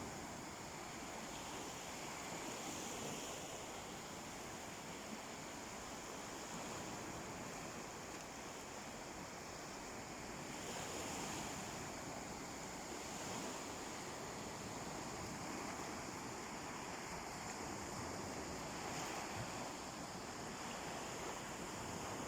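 Calm sea waves washing onto a beach: a steady surf hiss that swells and eases every few seconds.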